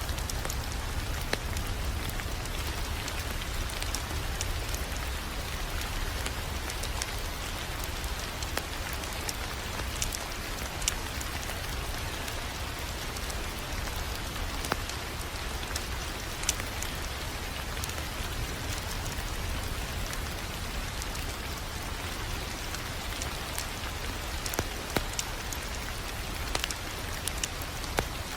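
Wood fire crackling steadily, with scattered sharper pops over a low, steady rumble.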